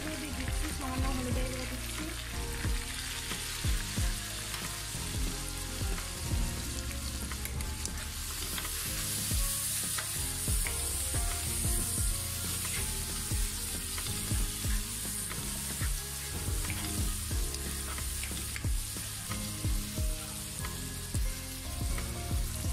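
Sliced onion and tomato frying in hot mustard oil, sizzling steadily, while a spatula stirs and knocks against the pan at intervals. The sizzle grows louder for a few seconds about eight seconds in.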